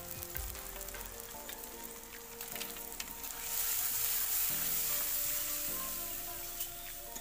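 Onion, tomato and spice masala sizzling in hot oil in an aluminium kadai, stirred with a metal spatula that clicks and scrapes against the pan. About three and a half seconds in, the sizzle swells into a louder, brighter hiss that slowly eases off.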